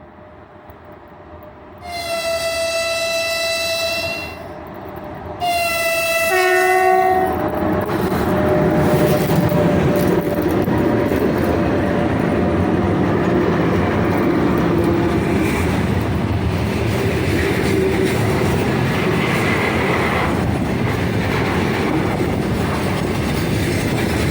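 A 3ES5K "Ermak" electric locomotive sounds its horn in two blasts as it approaches, the second dropping in pitch as the engine passes. It is followed by the steady loud rolling noise and wheel clatter of its 71-wagon freight train going by.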